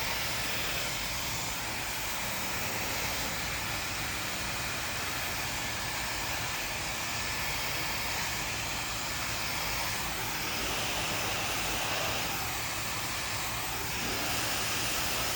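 Handheld hair dryer running steadily, its air rushing out in an even hiss that swells a little now and then.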